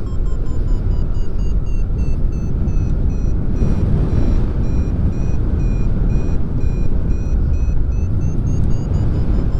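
Wind rushing over the microphone in flight, with a paragliding variometer beeping steadily at about two beeps a second, its pitch dipping and then rising near the end: the beeps signal the glider is climbing in lift.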